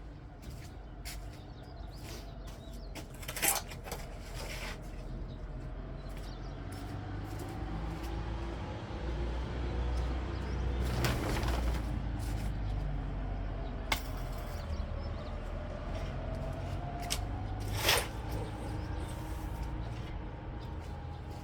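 Soil being moved to fill a garden bed: a steady low engine-like drone whose pitch slowly rises and falls, broken by a few sharp metallic clanks.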